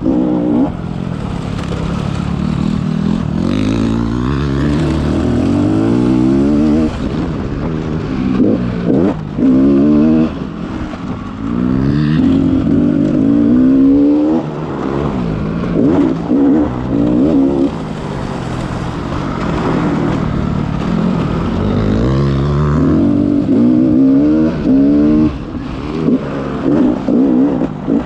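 Motocross bike engine ridden hard, its pitch climbing again and again as it accelerates through the gears, with brief drops where the throttle is shut off between runs.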